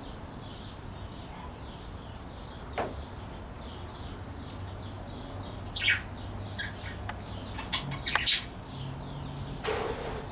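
Pet parakeets chirping: a continual run of short high chirps, with a few louder calls scattered through.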